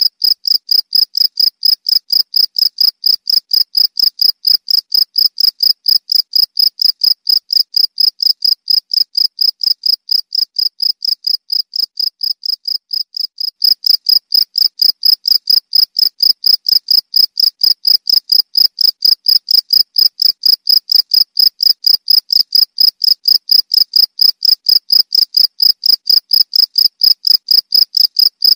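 Cricket chirping: a high-pitched pulse repeated evenly about three times a second. It fades somewhat for a few seconds past the middle, then returns at full strength about thirteen and a half seconds in.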